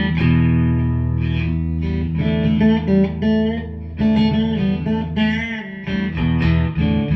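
Guitar music: a melody of separate plucked notes played over a held low note.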